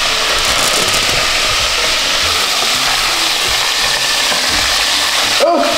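Cornmeal-battered catfish fillets deep-frying in a pot of hot oil: a steady, loud sizzle.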